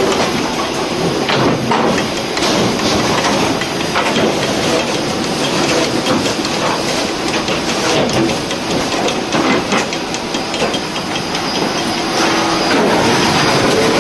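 Sawmill machinery running: a dense, steady mechanical noise with frequent clattering knocks, becoming louder and steadier about twelve seconds in.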